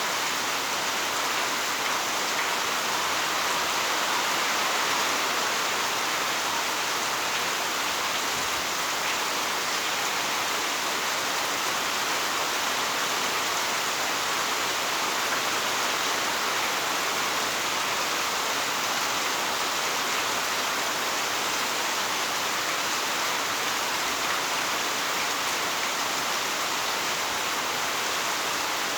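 Heavy rain falling steadily, a dense, unbroken hiss of rain on surfaces.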